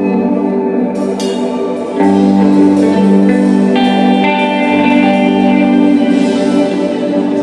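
Shoegaze band playing live: dense, sustained electric guitar chords that change and grow louder about two seconds in.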